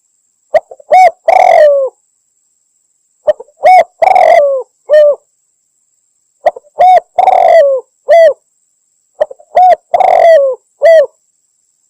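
Spotted dove cooing: a phrase of short coos around one longer, drawn-out coo, repeated four times at about three-second intervals. It is a hunters' lure call, given as a female dove calling a male.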